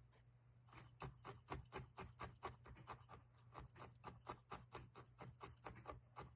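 Felting needle being stabbed over and over into wool roving on a foam block: a quick, even run of soft pokes, about five a second, starting just before a second in.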